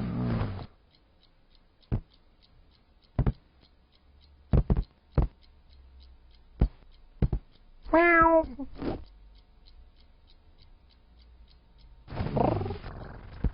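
Domestic cat meowing: one clear meow about eight seconds in, with lower drawn-out cries at the start and again near the end. Several sharp knocks fall in between, over a faint fast ticking.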